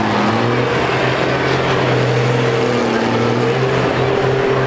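Diesel engines of combine harvesters running hard in a steady, loud drone, their pitch rising and falling a little as they rev.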